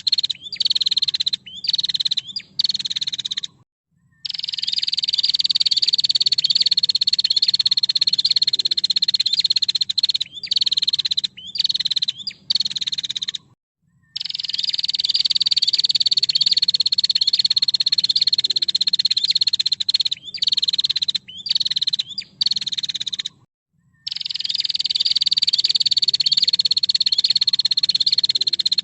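Female prinia (prenjak) giving its fast, dry, high-pitched rattling trill. Long phrases drift slightly down in pitch, broken up by short choppy bursts, and the same sequence comes round again about every ten seconds.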